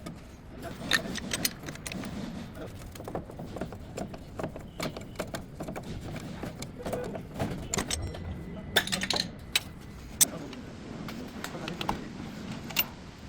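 Irregular metallic clicks and clinks of hand tools and parts being handled during a brake pad and rotor job, over a low rumble.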